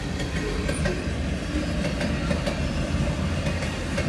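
Norfolk Southern freight train cars rolling past close by: a steady rumble of steel wheels on rail, with scattered clicks as the wheels pass over the rail joints.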